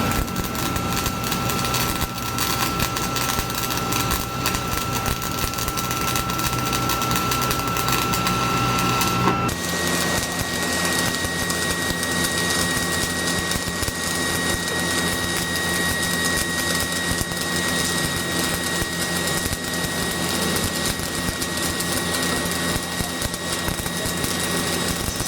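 Stick (arc) welding on steel pipe: the electrode arc crackling and sizzling steadily, with a faint steady whine underneath. The sound changes abruptly about nine and a half seconds in.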